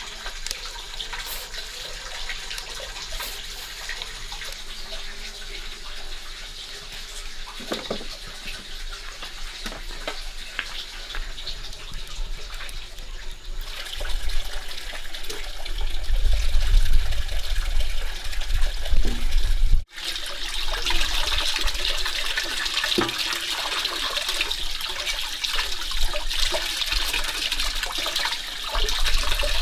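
Running water, a steady rushing that gets louder partway through and breaks off at an edit cut.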